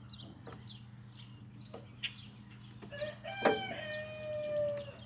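A rooster crows about three and a half seconds in: one long held call that lasts a second and a half. A sharp click comes just as it starts, with a few fainter clicks and small high bird chirps around it.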